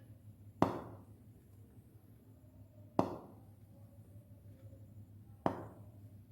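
Hydrogen from zinc reacting with hydrochloric acid igniting with a sharp pop at the mouth of a test tube held to a candle flame. The pop comes three times, about two and a half seconds apart, each dying away quickly. This is the characteristic pop test showing that the gas is hydrogen.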